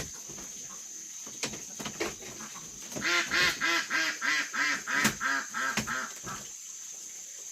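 A duck quacking in a quick run of about ten calls, over a steady high-pitched tone, with a few sharp knocks before the quacking starts.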